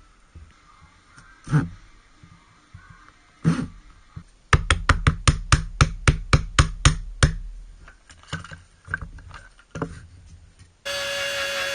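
Woodworking knocks: two single knocks, then a quick run of about fifteen sharp taps at roughly five a second, then a few light clicks. Near the end a motor-driven tool starts suddenly with a steady whine whose pitch sags slightly, as if under load.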